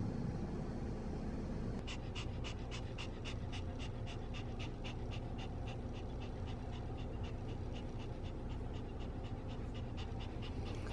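Pomeranian panting rapidly, about four breaths a second, starting about two seconds in, over a low steady hum.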